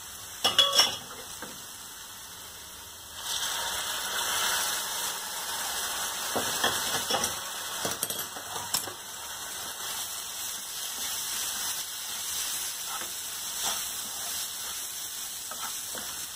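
Milk and water hitting hot ghee and roasted semolina in a frying pan, bursting into a sizzle about three seconds in that carries on, with a wooden spatula scraping and stirring through it. A few sharp knocks of the spatula against the pan near the start.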